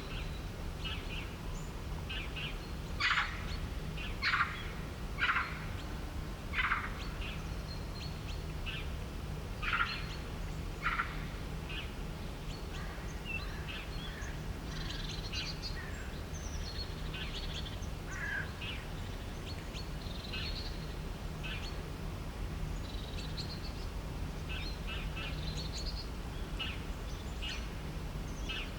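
Several birds calling and chirping in short, scattered calls, the loudest half-dozen falling in the first eleven seconds or so, over a steady low background rumble.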